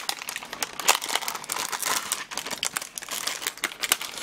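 Close-miked chewing of Spam kimchi fried rice: dense, wet crackling mouth clicks.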